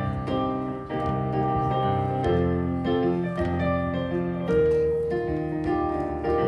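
Piano playing held chords with melody notes moving over them, an instrumental passage with no singing.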